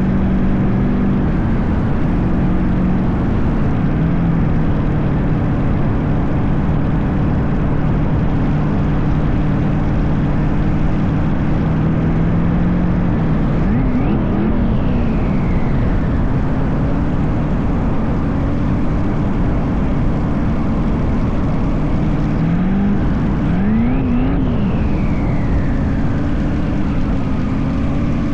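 LS-swapped BMW E36 drag car's turbocharged V8 running as the car is driven, a steady loud drone whose pitch steps down and back up, with two brief revs that rise and fall about 14 and 24 seconds in.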